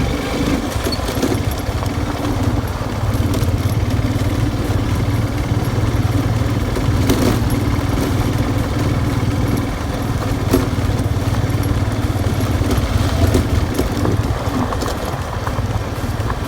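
Motorcycle engine running steadily under way, with a constant rush of wind and road noise and a couple of brief knocks about seven and ten seconds in.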